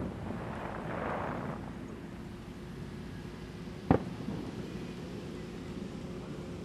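Aerial firework shell bursting: one sharp boom about four seconds in, over a faint steady hum.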